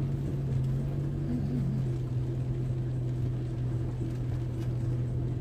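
Car engine running with a steady low drone, heard from inside the cabin while the car drives along.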